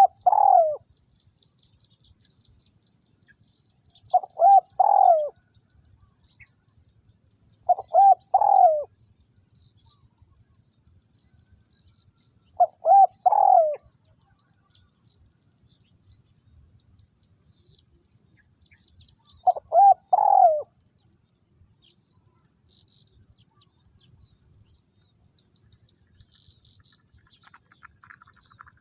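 Spotted dove cooing: a short phrase of several coos, sung five times with pauses of a few seconds between.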